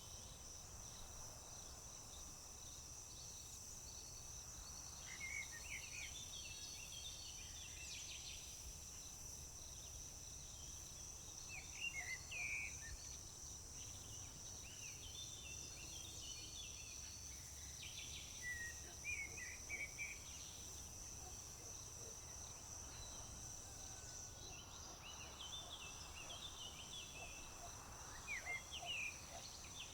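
Crickets trilling steadily in a high, even chorus, while a songbird sings short chattering phrases every few seconds. A faint low rumble runs underneath.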